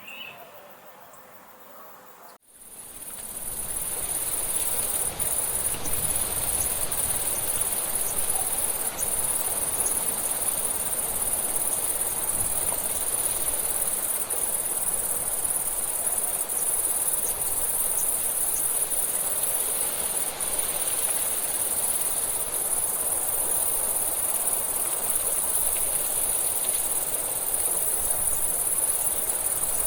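Dense, steady high-pitched chorus of rainforest insects such as crickets or katydids, fading up about two and a half seconds in and then holding even. Before that the background is quieter, with one short bird chirp.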